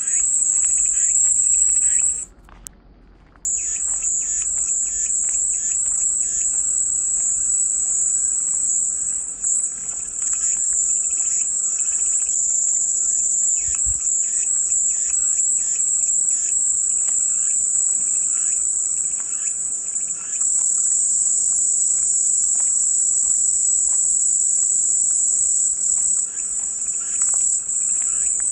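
Cicadas singing in chorus: a loud, steady, high-pitched drone. It breaks off for about a second near the start and then comes straight back.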